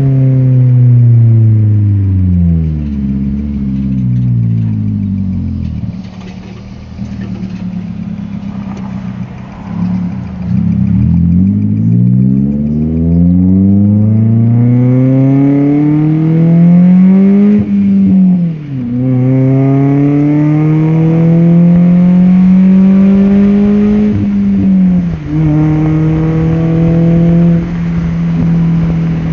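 2014 Nissan Sentra's four-cylinder engine through aftermarket headers, exhaust and an HKS muffler while driving. The revs fall away at first, then climb twice under acceleration, each climb ending in a sharp drop, and the engine settles into a steady cruise near the end.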